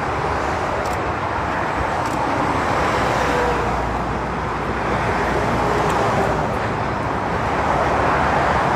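Busy motorway traffic: the steady rush of tyres and engines from lorries and cars passing in several lanes, swelling as vehicles go by about three seconds in and again near the end.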